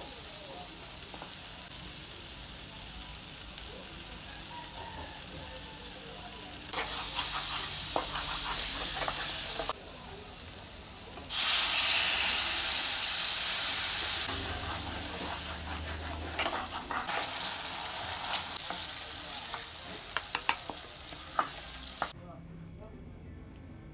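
Tomato paste and onions sizzling in hot oil in an aluminium pan, stirred with a wooden spatula. The sizzle surges loud twice, the second time as water is poured into the hot pan. It then settles to a lower sizzle with the spatula scraping and a few taps on the pan.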